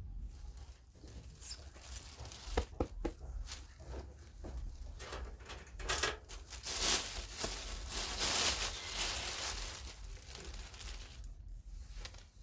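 Plastic packaging crinkling and rustling as purchased items are handled, with a few sharp handling clicks early on and a longer, louder stretch of crinkling in the middle.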